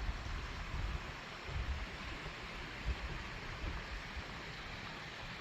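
Steady rushing of a small mountain stream, with low rumbles of wind on the microphone.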